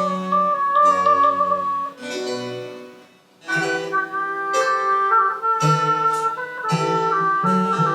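Live French Baroque chamber music: a flute melody over plucked-string accompaniment. The playing breaks off briefly about three seconds in, then resumes.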